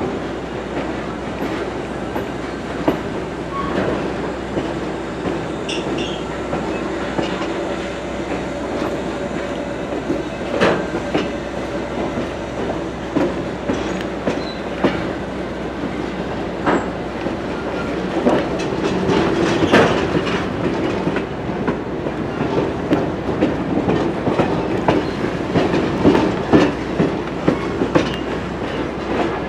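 Excursion train running along the track: a steady rolling rumble with irregular clicks and knocks from the wheels on the rails.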